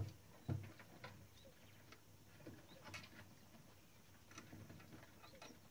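Faint, scattered clicks and light knocks from handling small parts of a Klein Adler 2 typewriter under repair. The loudest comes right at the start, another about half a second later, and a few fainter taps follow.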